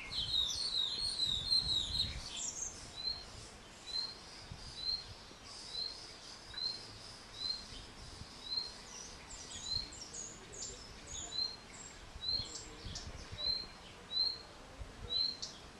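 Small songbird chirping: a short, sharp chirp repeated about once a second, with a quicker flurry of chirps in the first two seconds and some higher, thinner notes near the middle.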